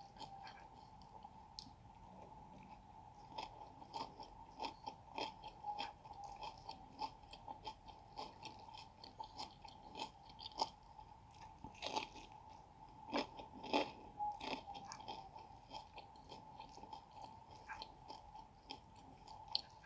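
Close-miked chewing and crunching of a mouthful of pecel vegetables and fried vegetable fritter, with irregular wet mouth clicks and crackles, loudest in a cluster of crunches about twelve to fourteen seconds in. A faint steady whine runs underneath.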